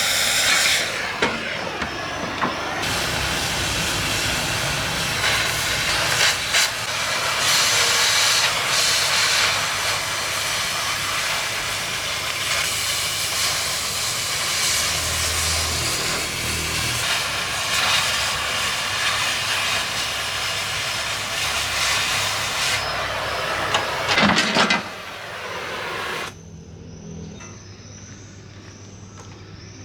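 Gas cutting torch flame hissing steadily and loudly, stopping about 25 seconds in. A quieter steady hum with a faint high whine follows.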